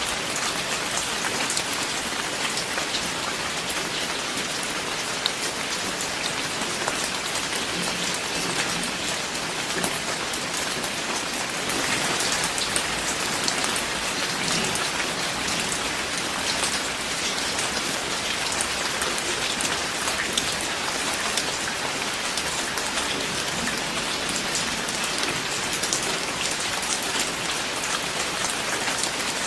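Steady rainfall, a dense even hiss with many sharp individual drop hits, swelling slightly about twelve seconds in.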